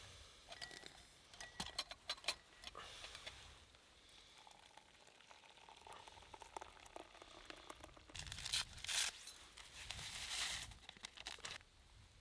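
Crinkling and rustling handling noises: scattered crackles and clicks in the first few seconds, then a louder spell of rustling from about eight to eleven and a half seconds in.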